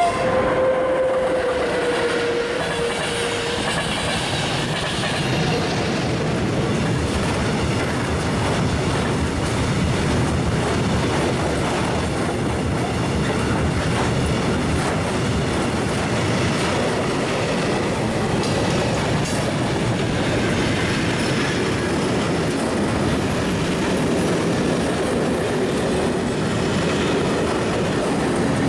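Electric-hauled freight train passing close by. In the first few seconds a held tone from the locomotive dips slightly in pitch as it goes past. A long string of covered wagons and tank wagons then rolls by with a steady rumble of steel wheels on the rails.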